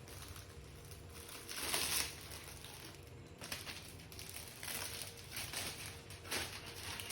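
Snack packets and wrappers crinkling and rustling as they are handled and packed, in irregular bursts, the loudest about two seconds in.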